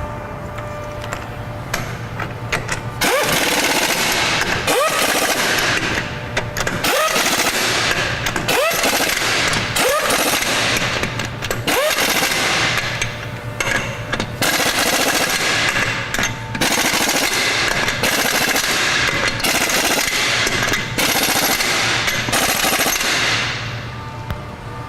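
Impact gun driving the rear wheel's lug nuts on, in about a dozen short runs of rapid hammering, each starting with a quick rise in pitch as the tool spins up.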